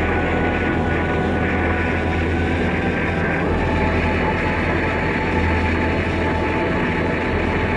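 BMW R1200RT's boxer-twin engine running steadily as the motorcycle rides along at an even pace, with no gear changes or revving.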